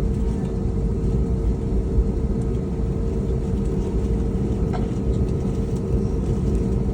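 Cabin noise inside an Airbus A321neo taxiing after landing: a steady low rumble with a constant hum, from the engines at idle, the cabin air and the wheels rolling.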